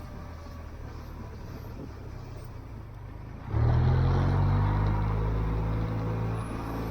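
Low engine rumble, then a much louder engine note cuts in sharply about three and a half seconds in, holding a steady low pitch and slowly easing off.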